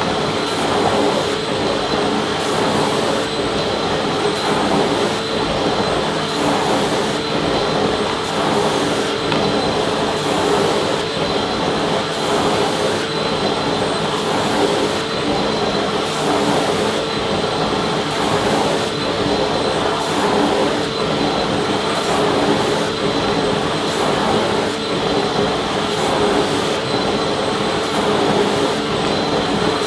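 Vacuum cleaner running steadily: a constant motor hum and whine over the rush of air, with no change in pitch or level.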